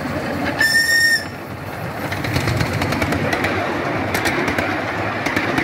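Narrow-gauge train passing close by: a short single-note whistle from the locomotive about half a second in, then the wheels rumbling and clicking on the rails as the wagons roll past.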